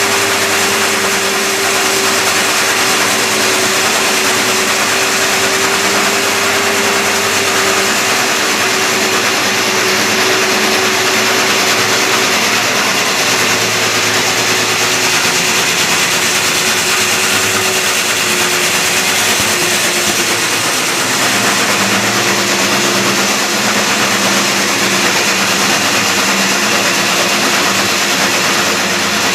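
Power drill turning a 4-inch hole saw: a steady motor whine over a loud rough noise, with the pitch dipping slightly about two thirds of the way in.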